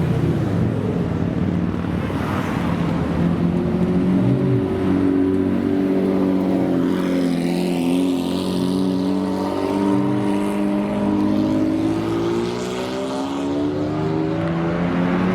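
Supercar engines running at a steady loudness, their pitch gently rising and falling.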